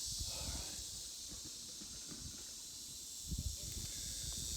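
Steady high-pitched insect chorus in the swamp, a continuous shrill hiss, with a few low bumps on the microphone a little over three seconds in.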